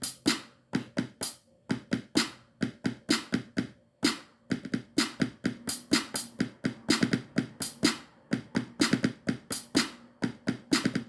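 Drum-machine beat playing from an Akai MPC One: a quick, even run of drum and hi-hat hits over a held low note. It is a straight beat with no swing, the kind of beat its maker calls very boring.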